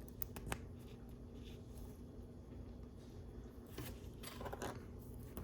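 Faint clicks of small plastic LEGO pieces being handled, with a brief rustle of pieces being sorted a little before the end.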